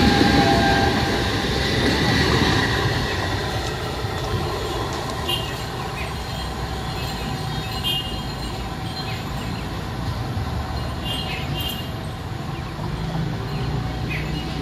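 Howrah–Bandel electric local train (EMU) running past on the tracks: its whine and wheel-on-rail rumble are loudest over the first two to three seconds, then fade to a steady lower rumble as it moves away.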